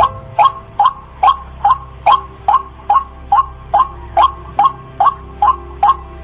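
White-breasted waterhen (ruak-ruak) giving its monotonous repeated call: a short, loud note about two and a half times a second, over a faint steady hum.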